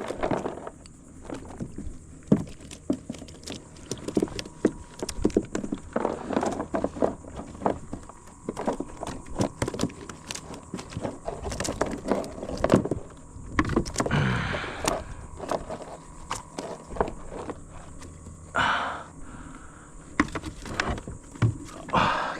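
Irregular knocks and clatter against a kayak hull, with a few brief swishes in between, as gear or the catch is handled on board.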